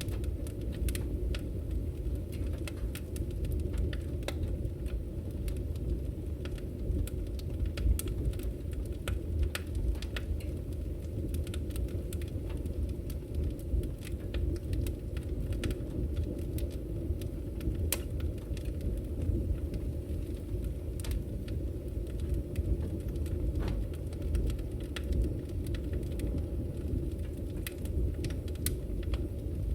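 Firewood burning in a fireplace: irregular sharp crackles and pops over a steady low rumble, with a few louder pops.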